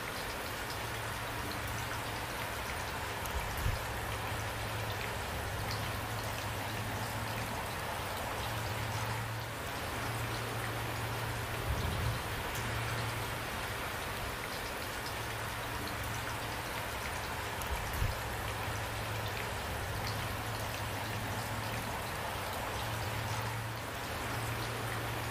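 Steady rain falling on trees and the street. A few louder drop taps stand out now and then, over a low hum that fades in and out.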